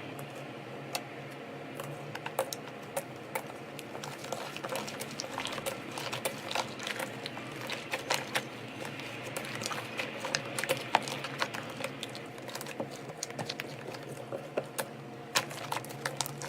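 Slime being squeezed and pressed by hand, giving dense, irregular sticky clicks and small pops over a steady low hum.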